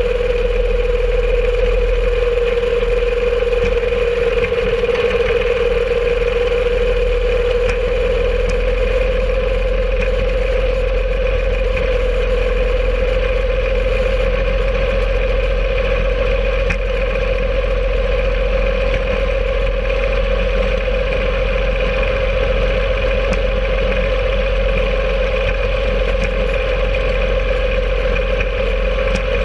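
Home-made rail cart's engine running steadily as the cart travels along the track. One strong droning tone rises slightly in pitch in the first half, then holds.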